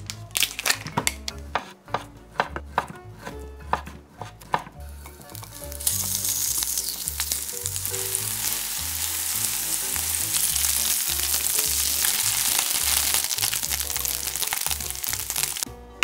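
A knife slicing a block of canned ham on a wooden cutting board, a quick run of a dozen or so sharp strokes. From about six seconds in, the ham slices sizzle steadily in hot oil in a frying pan, and the sizzle cuts off just before the end.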